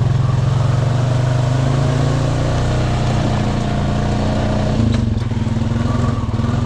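Honda Rancher ATV's single-cylinder engine running steadily under load, with a steady wash of water noise as it wades through high creek water that reaches the floorboards. A short knock comes about five seconds in.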